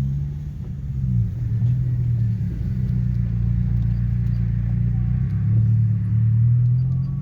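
Deep bass of a funk track played loud through a car sound system's subwoofers, with almost nothing heard above the bass line, which slides up and down in pitch.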